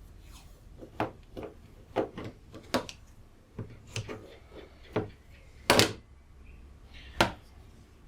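Handling noises while tape is put over a UPS battery's terminals: a string of light taps, clicks and knocks, about one a second, with a louder, longer rasp a little before six seconds and a sharp knock about a second later.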